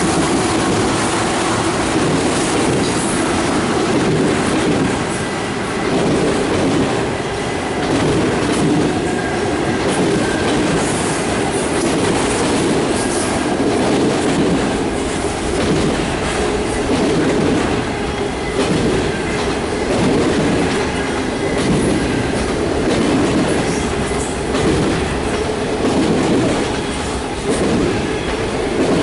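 Freight train of enclosed autorack cars rolling past, a continuous rumble of steel wheels on rail with faint wheel squeal. The sound swells and dips about every two seconds as each car goes by.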